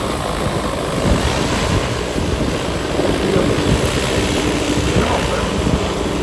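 Rotors of a KM45 40-litre agricultural spraying drone running with a steady hum, under heavy wind buffeting on the microphone.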